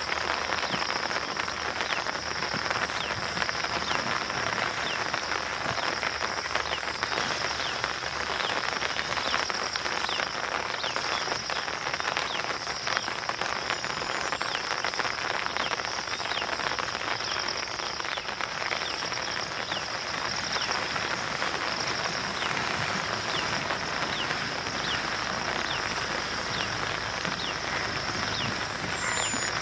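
Steady rain falling on wet ground and water, a constant hiss dotted with small drop hits. A continuous high-pitched buzz runs under it.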